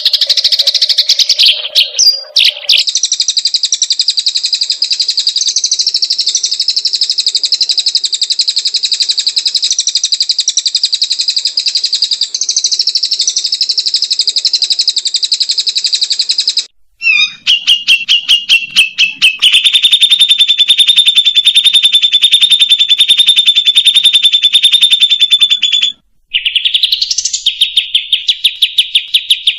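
White-rumped shama (murai batu) song in the rapid 'trotol' style: long runs of very fast, high repeated notes. It breaks off abruptly twice and resumes on a lower pitch each time.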